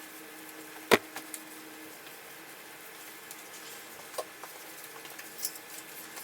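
A sharp knock about a second in, then a few fainter clicks and taps over a steady room hum.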